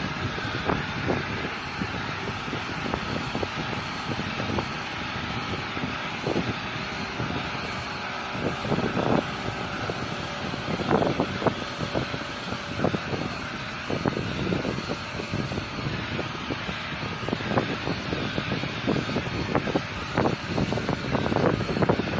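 A machine drones steadily, engine-like, with wind buffeting the microphone and irregular knocks, more of them in the second half.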